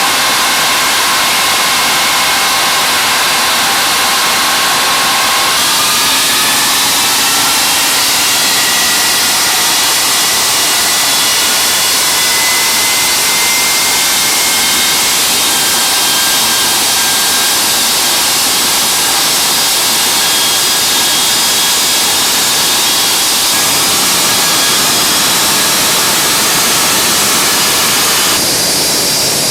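Ilyushin Il-86's Kuznetsov NK-86 turbofan engines running during a ground run-up: a loud, steady roar with several whining tones. About six seconds in the whine shifts and climbs slowly as the engine speed rises, and near the end the high part of the sound falls away.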